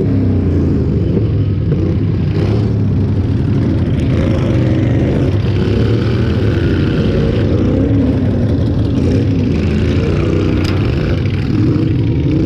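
Loud engines of modified lawn tractors running, their pitch wavering up and down as they rev.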